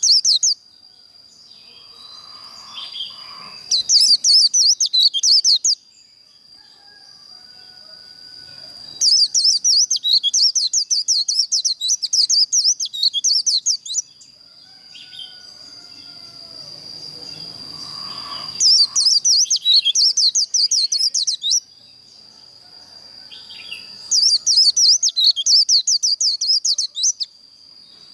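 White-eye (vành khuyên) singing its fast, high, chattering 'líu' song in repeated bursts of rapid trills, each two to five seconds long, with short pauses between. A thin, steady high-pitched tone runs underneath.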